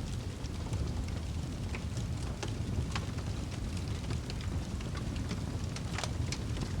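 Fireplace crackling: irregular sharp snaps and pops over a steady low rumble of the fire.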